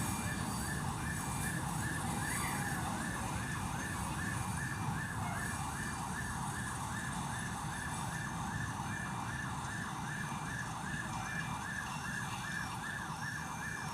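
Electronic warning siren sounding rapid rising chirps, about three a second, over the low rumble of a passing diesel locomotive.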